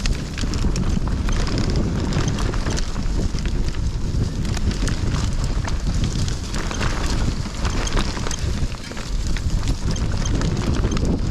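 Hardtail mountain bike riding a rough dirt trail: wind buffeting the microphone over a constant clatter of tyres and frame on the ground, with many small knocks and rattles.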